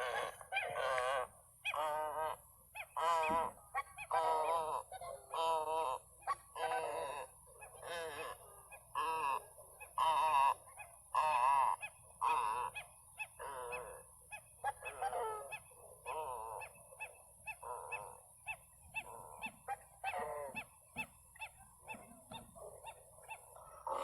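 Large birds giving hoarse, wavering honking calls in a steady series, roughly one a second, over a faint steady high hiss.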